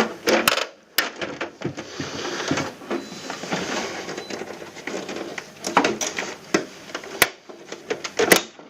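Hands working a taped-on plastic part of an air conditioner loose: tape rustling and scraping, with many sharp clicks and knocks of plastic. There is a loud knock a little after seven seconds in.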